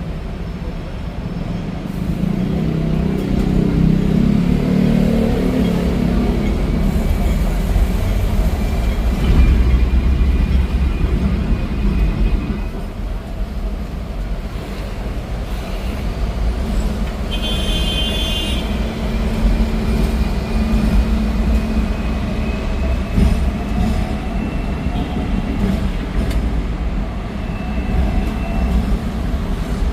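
Hong Kong double-decker tram running along its street rails: a steady low rumble of wheels and running gear with a faint whine. About eighteen seconds in there is a brief high-pitched ringing tone.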